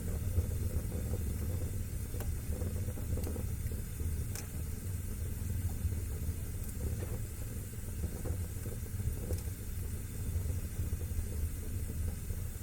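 Wood fire burning in a fireplace: a steady low rumble of flames with scattered sharp crackles and pops, a second or so apart.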